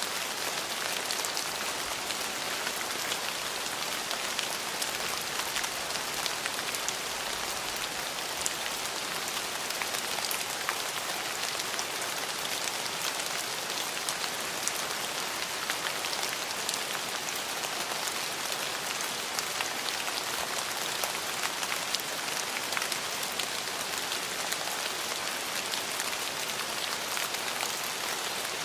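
Steady rain falling, a dense even hiss flecked with the sharp ticks of individual drops hitting a surface.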